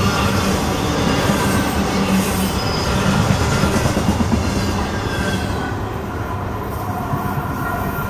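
Double-stack intermodal container train rolling past on well cars, with wheel and car noise and thin squealing tones from the wheels. The high-pitched part of the noise fades about five or six seconds in as the last cars go by, leaving a lower rumble.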